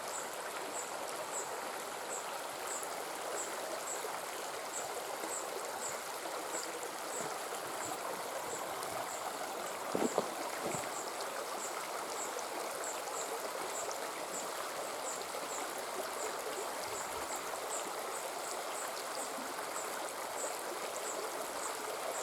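Steady rushing of running stream water, with a high, thin peep repeated about twice a second over it and one short knock about ten seconds in.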